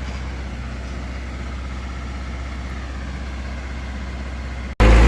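Heavy diesel engine of earth-moving machinery running steadily at low revs. Near the end the sound cuts off abruptly and comes back as a much louder engine.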